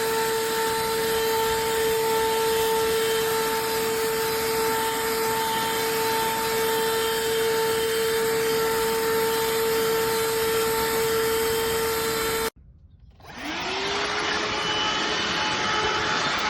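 BSRCO cordless handheld vacuum running steadily with a high motor whine over the rush of air. About twelve seconds in it cuts off abruptly. A second later a vacuum motor starts up again, its whine rising quickly to a steady pitch.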